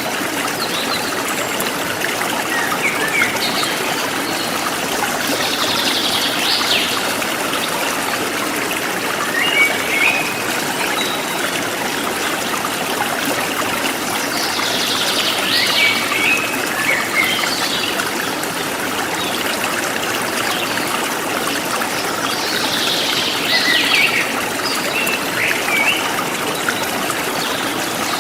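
Steady trickling of a forest stream, with birds calling over it in short bursts every several seconds.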